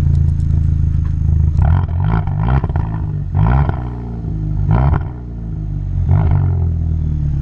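Muffler-deleted exhaust of a 2020 Hyundai N Line car idling, with the throttle blipped four times in short revs that climb and fall back quickly.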